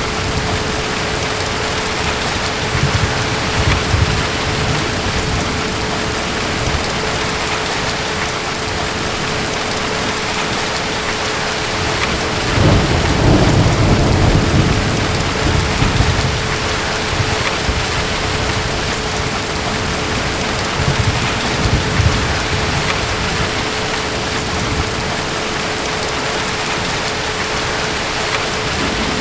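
Steady heavy rain with distant thunder rolling in low rumbles, the longest and loudest about halfway through and shorter ones early on and about two-thirds in.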